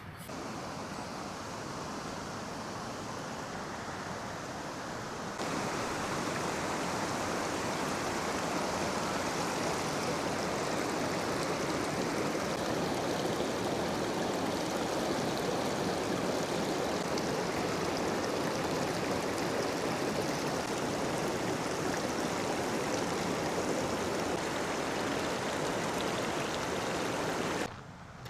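River water rushing in a steady, even wash, stepping louder about five seconds in and cutting off abruptly near the end.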